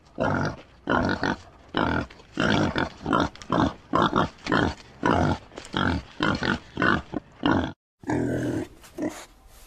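Tamworth pig grunting in a quick, steady run of short grunts, about three a second, broken by a brief gap near the end.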